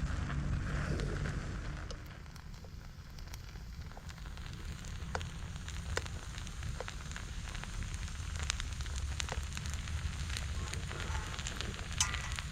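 Firewood fire burning, with scattered sharp crackles and pops over a low rumble.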